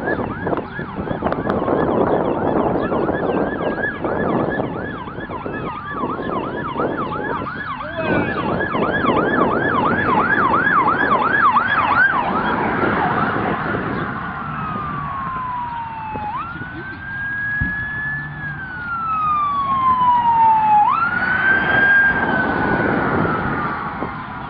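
Electronic siren sounding a fast yelp, then switching about halfway through to a slow wail that falls and rises every few seconds. A loud rushing noise runs under the yelp.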